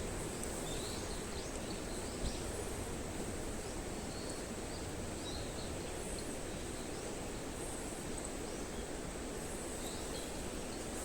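Outdoor ambience: a steady rushing noise with a constant high thin whine over it and scattered short bird chirps, and one sharp click about two seconds in.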